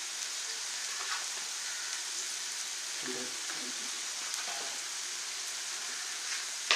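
Goat blood frying in coconut oil in an iron kadai, with a steady sizzle. A single sharp click comes near the end.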